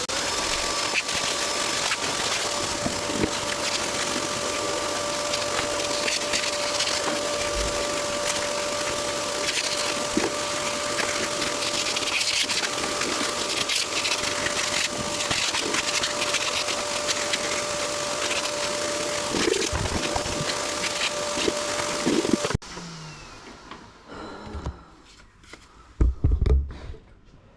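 Dremel rotary tool running at a steady speed with a constant whine, its bit grinding and sanding the wood of a chainsaw carving to smooth out chainsaw dents. It cuts off suddenly about 22 seconds in, leaving quieter handling sounds and a couple of knocks near the end.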